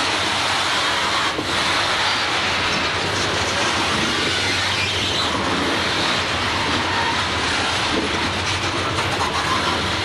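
CSX freight train of open-top hopper cars rolling past close by: a steady rumble of steel wheels on the rails, with a few clicks.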